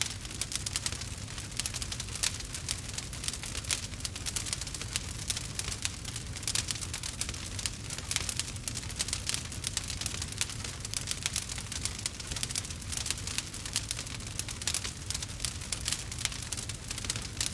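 Wood fire crackling in a fireplace: a dense, irregular patter of small pops and snaps over a steady low rumble of the flames.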